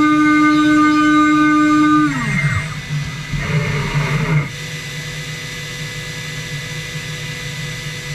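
CNC router spindle running at a steady high whine, then winding down with a falling pitch about two seconds in. A quieter steady machine hum continues after it.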